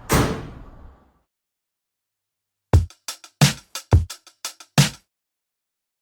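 Intro music effect: a crash at the start that fades over about a second, then silence, then a quick fill of about ten drum hits with heavy bass-drum thumps.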